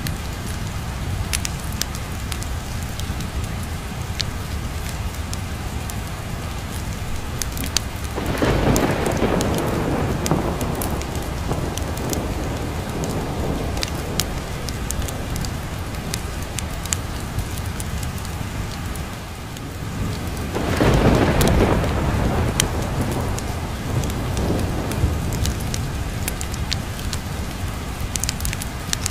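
Steady rain falling, with two long rolls of thunder, one about eight seconds in and a louder one about twenty-one seconds in.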